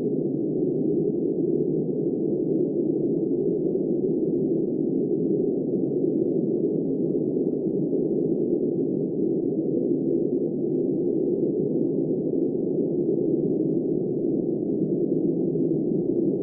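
Steady wind noise, dull and muffled, holding an even level with no gusts, no rain patter and no distinct events.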